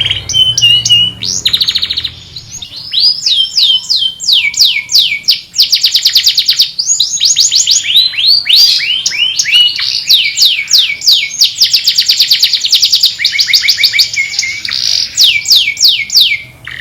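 Domestic canary singing: long rapid trills of falling whistled notes, several to many per second, with brief pauses about two and seven seconds in.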